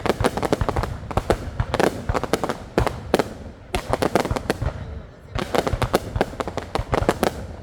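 Fireworks going off: a dense, irregular run of bangs and crackles, with a short lull about five seconds in.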